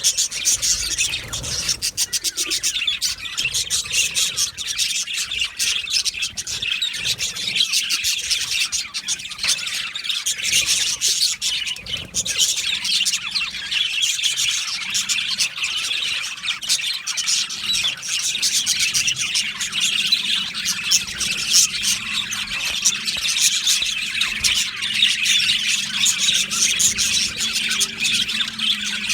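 A colony of budgerigars chirping and chattering without a break, many birds calling over one another.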